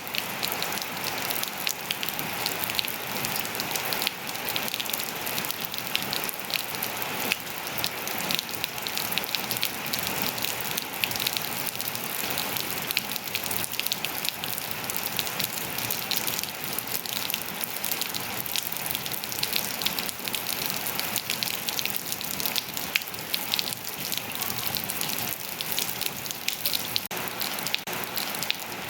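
Steady rain falling and pattering on surfaces, a dense even hiss full of many small drop ticks.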